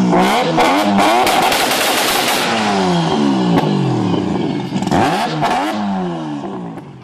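A loud drag-racing car engine revving hard, its pitch sweeping up and down several times. Sharp crackling pops from the exhaust run through the first couple of seconds, and the engine sound fades near the end.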